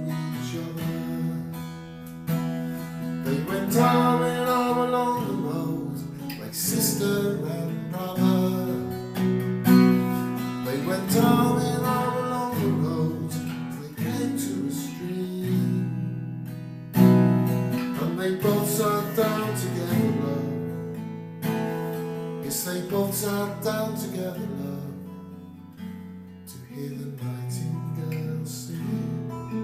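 Acoustic guitar playing a folk tune, mixing plucked notes and strums.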